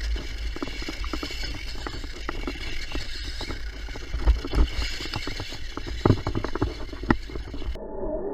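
Tamiya Lunchbox RC monster truck driving over rough ground: a steady high whine from its brushless motor over a low rumble, with a rapid clatter of small knocks and a few louder thumps as it bounces. The sound changes abruptly near the end.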